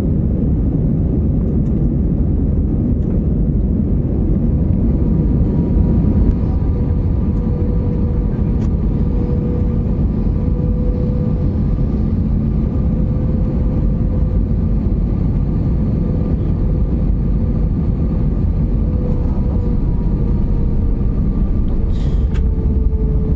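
Steady engine and airflow noise of an airliner heard from inside the cabin: a dense low rumble with a faint steady whine that drops slightly in pitch near the end.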